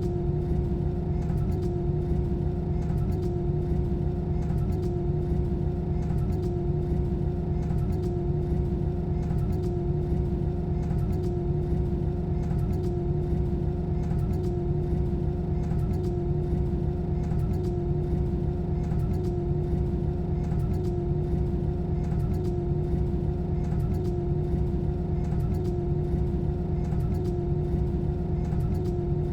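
Steady drone of an Airbus A320's jet engines and airflow heard inside the cabin, with a constant hum over a dense low rush, late in the descent toward landing.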